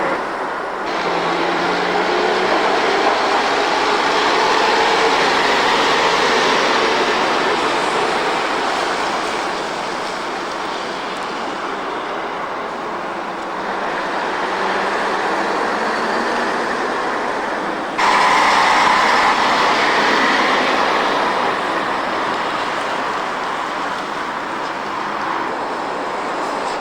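Noise of heavy vehicles running, a loud, steady rushing sound that changes abruptly about 18 seconds in.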